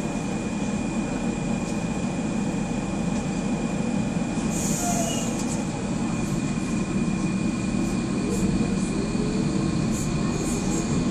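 Docklands Light Railway train running, heard from inside the carriage: a steady rumble of the wheels on the track with a constant high-pitched whine over it. A brief hiss comes about four and a half seconds in.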